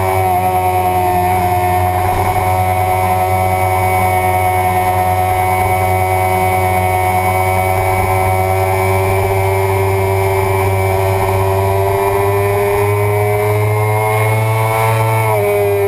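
Suzuki sport bike engine running hard at high revs on track, a steady high drone whose pitch climbs slowly and then drops sharply near the end.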